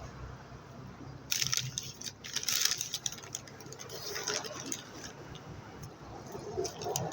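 Close-up handling noise while eating: a burst of crinkling and rustling of food packaging about a second in, lasting a second or two, then scattered small clicks and taps.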